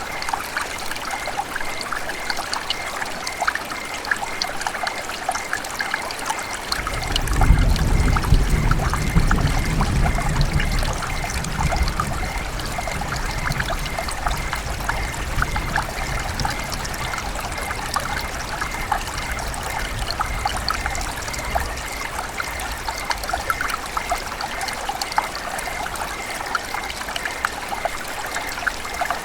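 River water trickling and babbling: a steady rush full of small splashes. About seven seconds in a low rumble swells for a few seconds, then slowly fades.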